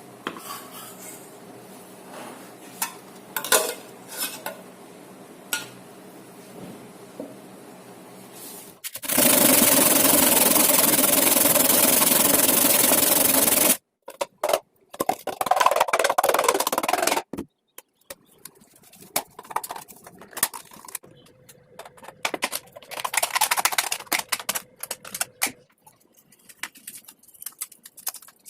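Hand work on workpieces: light clicks and handling, then about five seconds of loud, steady scraping or grinding that stops abruptly, followed by shorter bursts of rubbing and scraping.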